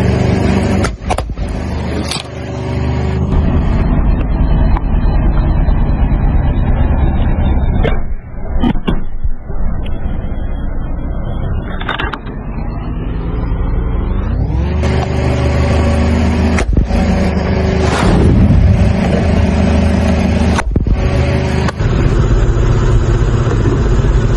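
Car engine running close by, its pitch rising about two-thirds of the way through and falling again near the end as the car creeps forward. A few sharp cracks stand out as the tyre bursts rubber balloons.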